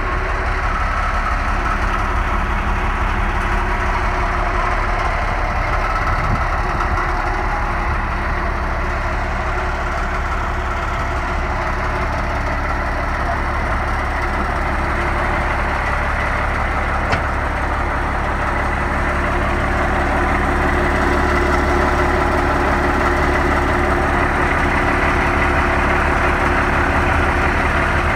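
1990 International 4900 dump truck's diesel engine idling steadily, getting slightly louder about two-thirds of the way through.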